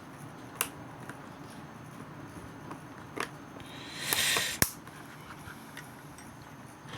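A few sharp light clicks and a brief rustle, from small parts of a model locomotive being handled and fitted together.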